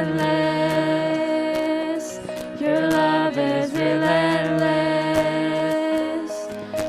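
Live worship band music: a slow song with long held notes.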